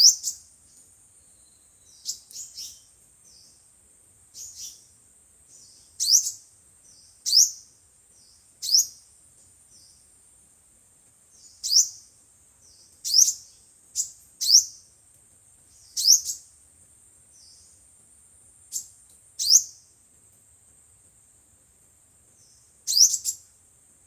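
Sunbird calls: short, sharp, high chirps, each dropping quickly in pitch, repeated irregularly every one to two seconds, over a faint steady high hiss.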